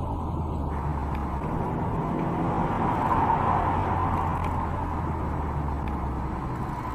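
Steady car engine and road noise while driving, a low hum with a constant rush of tyre and road noise that swells a little midway.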